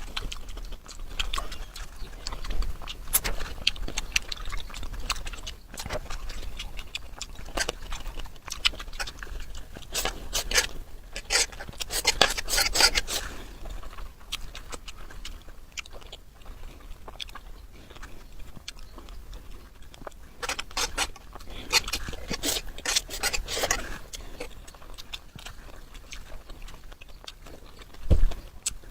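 Close-miked eating sounds: chewing and crunching with many sharp crackles, denser in two stretches, one around the middle and one later on. A single low thump comes near the end.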